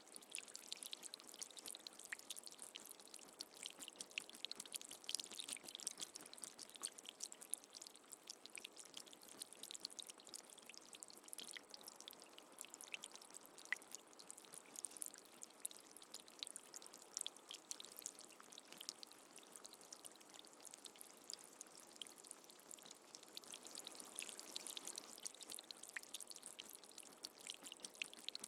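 Rain falling steadily: a dense patter of many separate drops over a soft, even hiss.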